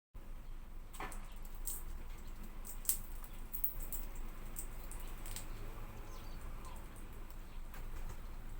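Hawfinch making scattered short, very high ticks, clustered in the first half, over a steady low hum.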